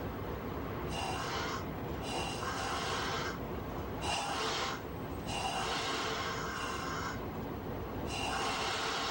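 Freight train running with a steady low rumble, overlaid by repeated bursts of high hissing and squealing, each about a second long and coming on and off several times.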